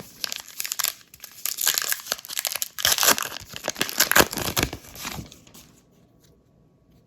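A Topps 2022 Heritage trading-card pack wrapper being torn open and crinkled in the hands: dense crackling that stops about five and a half seconds in.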